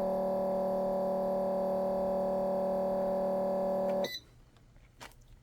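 Electrical heating appliance humming steadily while warming the tablet, then switching off with a click about four seconds in. A faint knock follows about a second later.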